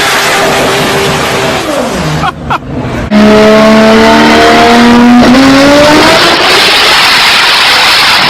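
High-horsepower turbocharged car engine at full throttle. Engine pitch falls off in the first two seconds, then about three seconds in a much louder run begins with the revs climbing steadily, a short break a couple of seconds later, and the revs climbing again.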